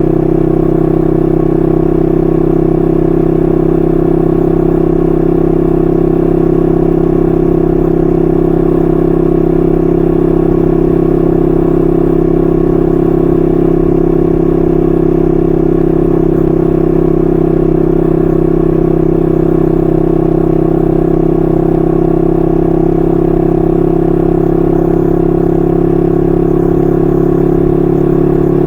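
1968 Honda Dream CL250's 250cc parallel-twin engine running through its stock mufflers, held at a steady cruising speed with an even exhaust note.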